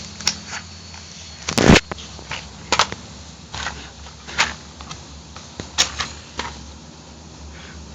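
A string of short, sharp clicks and taps at irregular intervals, with one heavier knock about a second and a half in, over a faint steady low hum.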